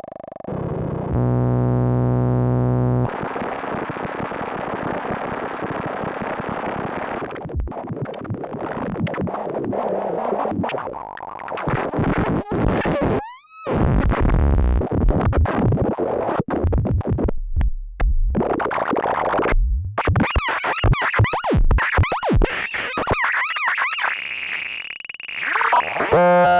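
Frog semi-modular synthesizer, with its two oscillators, sample and hold and multi-mode filter, playing dry: a buzzy pitched drone gives way to noisy, distorted, shifting textures. About halfway through come rising pitch sweeps and a brief dropout, then choppy, stuttering sound, and a steady high tone holds near the end.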